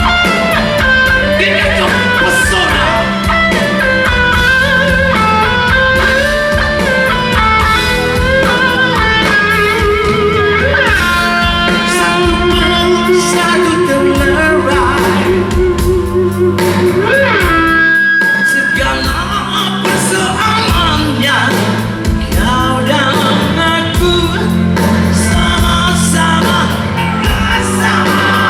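Rock band playing live, heard as raw concert sound: electric guitar melody over bass and drums, with a short break in the music about two-thirds of the way through.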